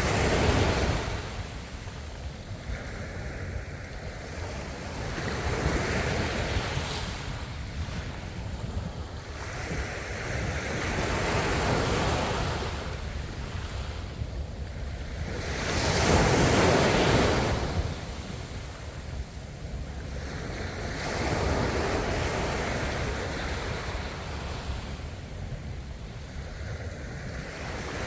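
Ocean waves breaking and washing onto the shore, the surf swelling and ebbing every few seconds with one bigger wave about halfway through, under a steady rush of wind.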